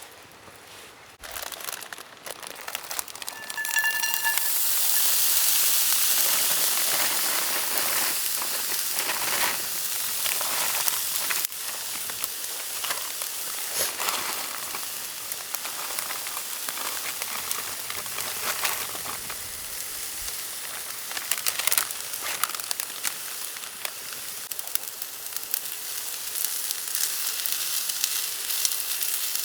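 Food going into hot oil in a frying pan: a loud sizzle starts suddenly about four seconds in and keeps going, with scattered clicks and scrapes from stirring, as egg fried rice is cooked.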